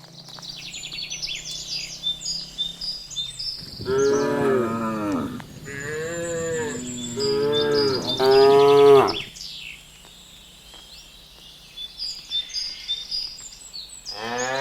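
Cattle mooing: a run of long, loud moos in the middle, broken into several calls, and another moo starting near the end, with high chirping in the background.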